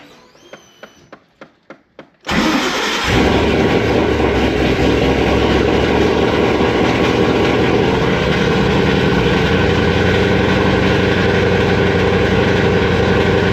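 A run of quick clicks, then a boosted Ford 4.6 three-valve V8 cranks and fires about two seconds in and settles into a loud, steady idle.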